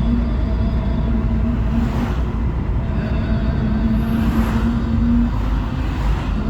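Car driving along a road: steady engine and road rumble with a constant low hum.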